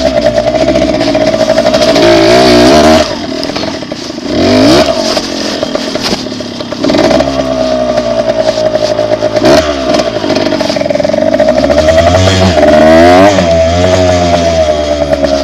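Dirt bike engine running under way, the throttle closed and opened several times so the engine note drops and climbs again, with a sharp drop about three seconds in.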